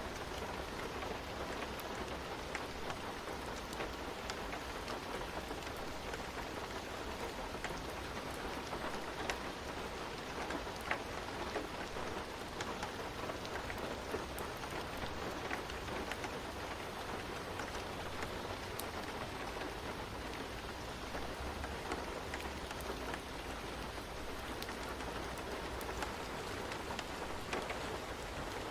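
Steady rain falling, with scattered close drops ticking and a low rumble underneath.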